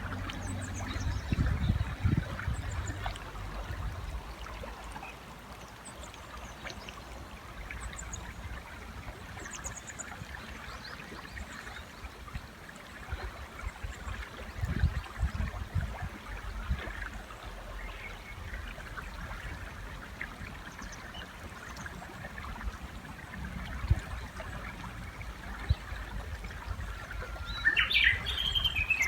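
River water running steadily, with faint distant bird chirps and a couple of short low thumps. Near the end a Japanese bush warbler calls close by: a held low note rising into a quick run of repeated notes.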